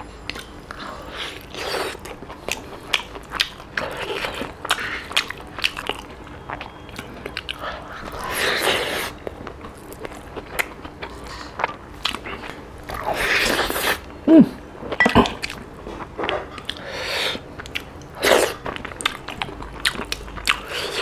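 Close-miked eating sounds of a man chewing and biting octopus fry with rice: many short wet clicks and smacks from the mouth, with a few longer noisy stretches, and the soft squish of fingers mixing rice on a wooden board.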